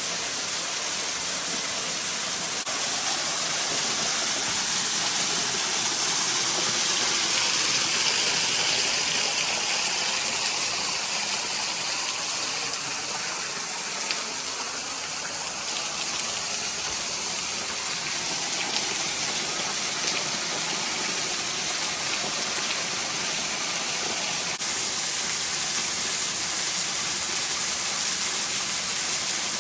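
Small waterfall: a steady rush of falling water, swelling slightly a few seconds in.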